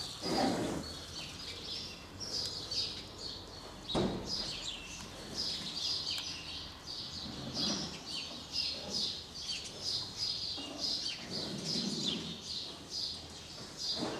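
Small birds chirping steadily, several short high chirps a second. A sharp knock comes about four seconds in, and there are a few low rustles.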